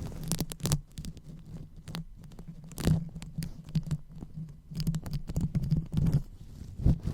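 Fingers rubbing and scratching directly on the microphone for ASMR 'brain massage': irregular crackly strokes over a low handling rumble.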